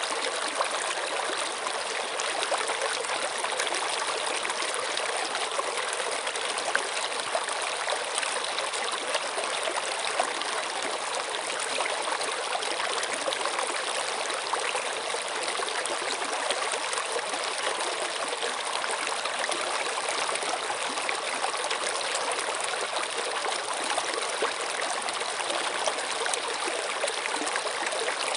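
Flowing stream water running steadily, a continuous splashing trickle.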